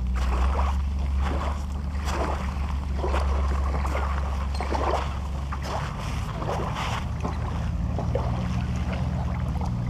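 A boat's engine running with a steady low hum that eases slightly about six seconds in, with short splashing or rushing noises recurring over it every second or so.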